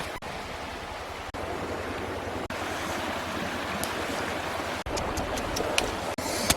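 Steady rushing noise with several brief sudden dropouts, and a few light clicks near the end.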